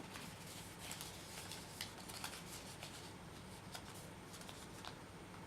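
Paper faintly rustling and crackling as a folded origami model is opened and creased, with scattered small crinkles.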